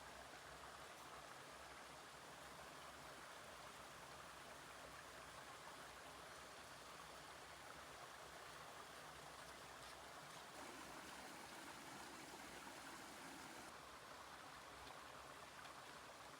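Faint, steady rush of running water, even and unbroken.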